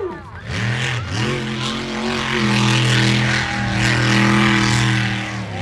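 Monster truck engine running hard at high revs, steady for a few seconds, then falling away near the end.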